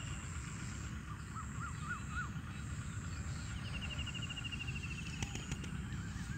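Birds calling faintly over a low steady rumble: four short rising-and-falling chirps about a second in, then a fast trill from about three and a half to five seconds in.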